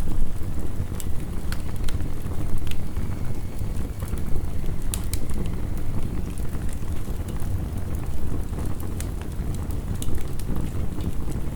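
Wood fire crackling, with sharp pops at irregular moments, over a steady low rumble of heavy rain.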